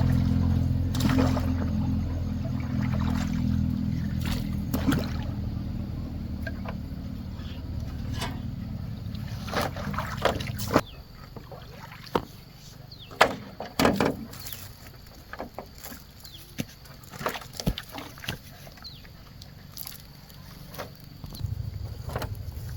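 Low steady hum of a small motor that cuts off abruptly about eleven seconds in and starts again near the end, with scattered wooden-sounding knocks and water sloshing, as around a boat or raft.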